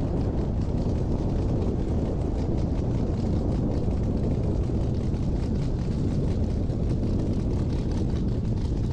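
Drag racing truck's engine running loud and steady, a dense rumble without a clear pitch, cutting off abruptly at the end.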